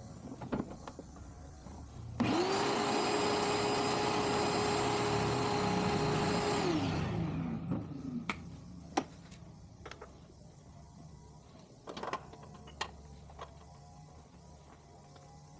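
An electric motor starts up quickly, runs steadily with a high whine for about five seconds, then winds down as it is switched off. Scattered clicks and knocks of handling come before and after it.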